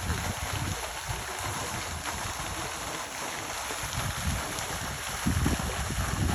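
Wind buffeting the microphone, in irregular low gusts that are strongest about five seconds in, over a steady outdoor hiss.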